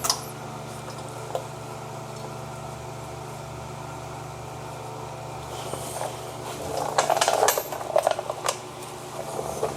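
Metal brake caliper hardware and tools being handled, with a cluster of sharp clinks and rattles from about seven to eight and a half seconds in. Under it runs a steady low hum.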